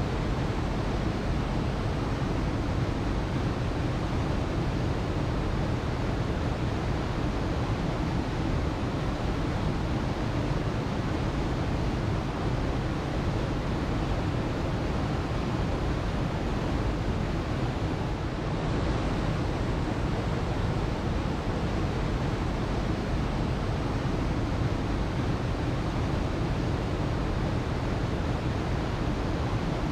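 Waterfall: a steady, even rush of falling water, heaviest in the low rumble and unchanging throughout.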